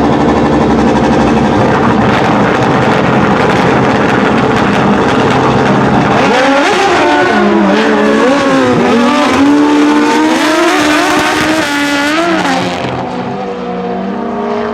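Drag-racing motorcycle engines running loud at high revs. About six seconds in, the sound turns to engine pitch rising and falling in steps, revving up and down.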